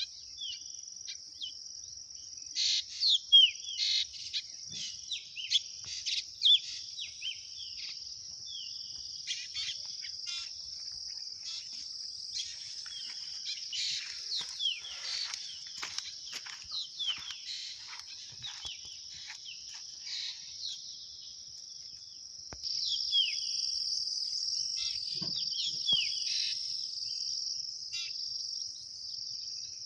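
Insects shrilling in a steady, continuous high drone, growing louder about two-thirds of the way through, with birds calling over it in many short, downward-sliding chirps.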